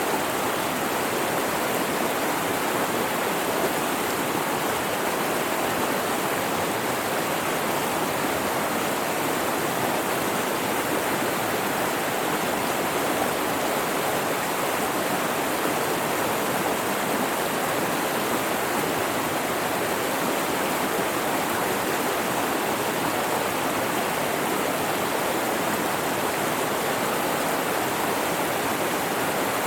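Mountain river flowing and rushing steadily over rocks, a continuous even water noise.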